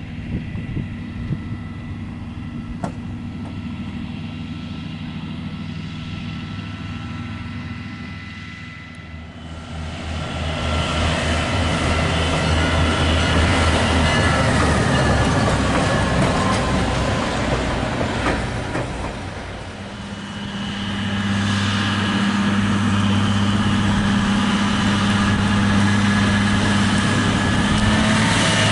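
Train with its locomotive engine running, a steady hum at first, growing louder about ten seconds in as rumble builds, with a strong steady engine drone through the last part.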